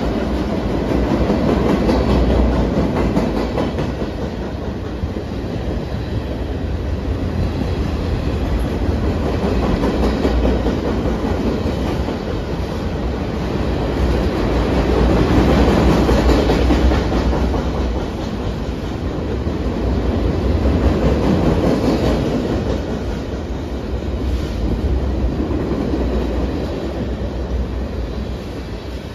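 Freight train of flatcars loaded with military vehicles rolling past close by, with a steady rumble of steel wheels on rail and a clickety-clack from the wheels. The sound swells and eases every few seconds as the cars go by.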